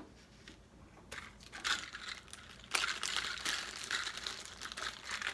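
Crinkling and rustling of craft supplies being handled, in short uneven bursts that thicken into a steadier rustle over the last half.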